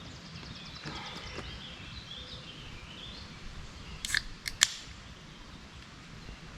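Small songbirds trilling and warbling against steady outdoor background noise, with three sharp clicks about four seconds in, the last one the loudest.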